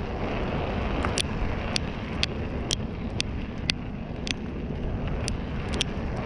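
Wind rumbling on the microphone of a moving bicycle, with a short sharp tick about twice a second.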